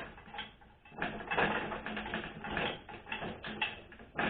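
Irregular metallic clicking and rattling of hand tools and transmission parts as a 4L60E front pump is worked down onto its alignment pins, in dense clusters after a quieter first second.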